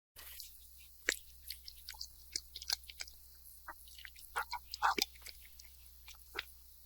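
A cat crunching dry kibble, irregular crisp crunches with louder bites about a second in and about five seconds in.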